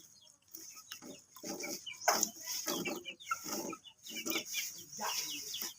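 White-rumped shama calling: a run of short, high chirping notes over repeated lower clucking notes about every half second.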